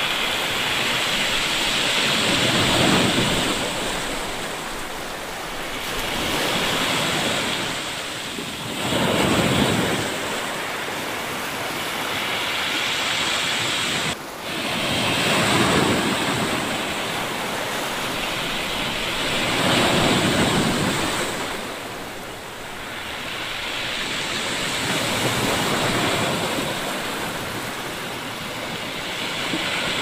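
Sea waves breaking and washing up a pebbly beach, the surf swelling and ebbing every few seconds. The sound drops out for an instant about halfway through.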